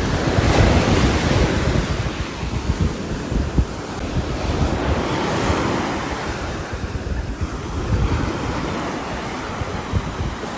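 Rain falling on a roof: a dense, steady hiss that swells and eases, with a low rumble underneath.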